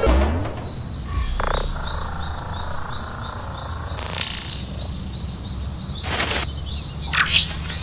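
Bird-like chirping in a steady repeated series, about three short high chirps a second, with a few brief whooshes and a quick rising glide near the end.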